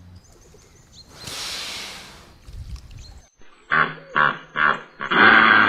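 A large animal's long breathy exhale and a low rumble. After a cut, a different recording: a run of short pitched calls, about two a second, building to a longer, louder call near the end.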